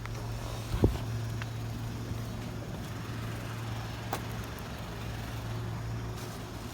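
A vehicle engine running steadily with a low hum, with a single sharp knock about a second in.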